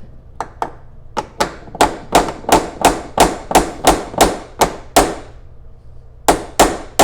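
Repeated sharp, ringing taps on a Corvette C3 door striker post, about three a second, then a pause of over a second and a few more taps near the end. The post is being knocked outward to adjust where the door latch catches, so the door latches without slamming.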